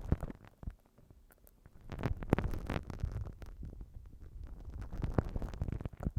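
Slime pressed and pulled against a binaural microphone: sticky crackling and squishing over a low rumble, with a brief lull about a second in.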